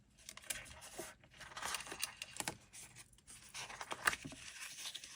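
Washi tape being peeled off its roll and torn by hand: a run of soft, irregular papery rips and crinkles, with a sharper click about four seconds in.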